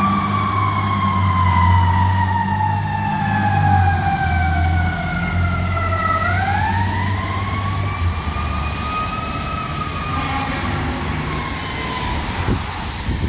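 Fire engine siren slowly winding down in pitch for about six seconds, then winding back up and fading away, over the rumble of a heavy fire apparatus engine passing by.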